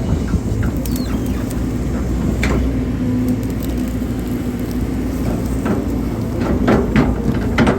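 Hydraulic excavator's diesel engine running steadily under load while digging, with scattered short knocks and scrapes that come more often near the end.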